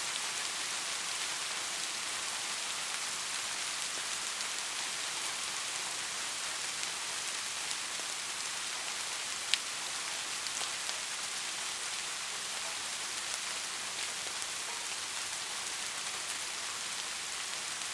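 Steady rain falling, an even hiss with scattered individual drop ticks, and one sharp, louder tick about halfway through.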